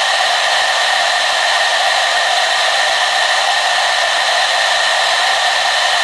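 Hair dryer running steadily: a constant rushing blow with a whine of several steady tones over it, unchanging throughout.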